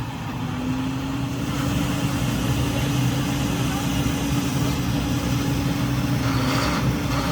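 A large vehicle's engine running steadily nearby with a low, even hum, growing slightly louder about a second and a half in.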